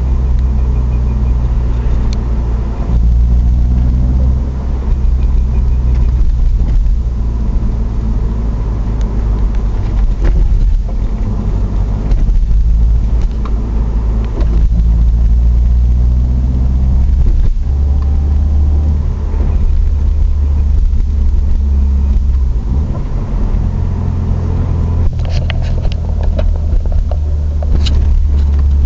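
Subaru Legacy engine and drivetrain running while driving, with a faint steady whine over the engine. A few sharp knocks come near the end, which fit the drivetrain clunks on acceleration that the owner reports.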